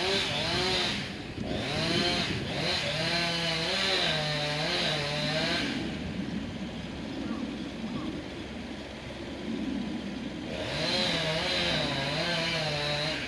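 Chainsaw running in two loud bursts, its engine speed wavering up and down as it works: one for about five and a half seconds from the start, another starting about ten and a half seconds in, with a quieter spell between.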